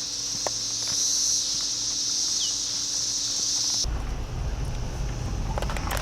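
Chorus of Brood X periodical (17-year) cicadas: a dense, high buzz that swells and fades in slow waves. About four seconds in, it suddenly drops back and a low rumble takes over.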